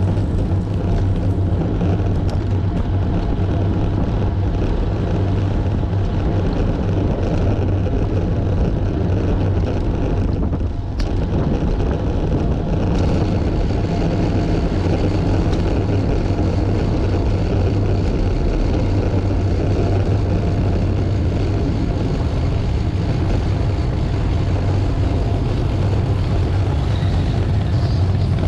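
Steady motor-vehicle noise with a constant low hum, dipping briefly about eleven seconds in.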